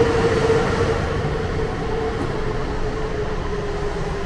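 Steady drone of an E6 series shinkansen standing at an underground platform: a humming tone over low rumbling noise, the tone sinking slightly in pitch.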